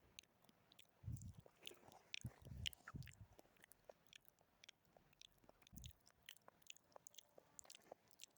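Quiet, close-miked ASMR mouth sounds: a steady run of small wet clicks and smacks, with a few soft low thumps in the first half.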